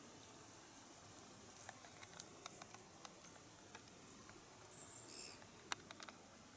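Faint scattered clicks and patters, with one short, thin, high small-bird call about five seconds in, followed by a few sharper clicks.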